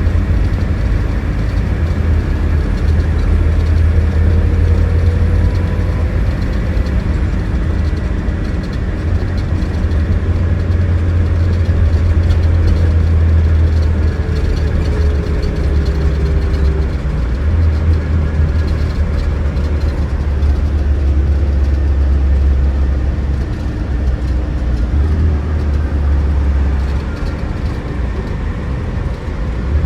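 Scania DC09 9.3-litre diesel engine of a coach running, a deep steady drone whose pitch shifts a few times.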